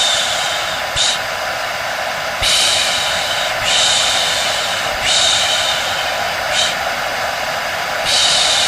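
Hair dryer running with a steady whooshing noise, while a person makes repeated long 'shh' shushing sounds over it, about one every second or so, as a white-noise lullaby to settle a baby.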